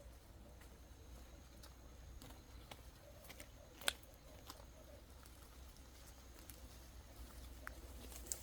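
Near silence: low room tone with faint scattered clicks and one sharp click about four seconds in.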